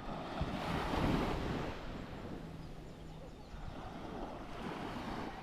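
Waves breaking and washing up a sandy beach, twice: one swell about a second in and another near the end, with wind on the microphone.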